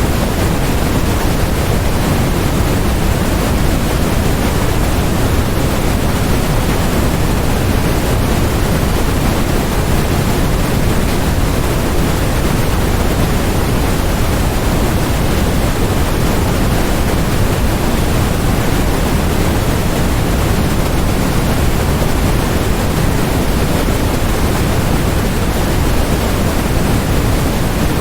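Steady generated noise sold as white noise: an even, unbroken hiss that never changes, with more weight in the low end than the high, closer to pink noise.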